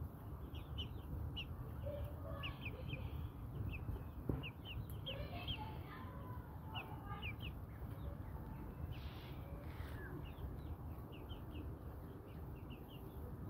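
Brahma chickens clucking, with many short high chirps repeating throughout and a small knock about four seconds in.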